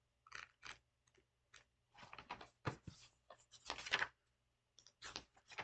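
Soft rustling and crinkling of paper Bible pages being leafed through to find a passage: a run of short, faint crackles, a little louder about four seconds in, over a faint steady low hum.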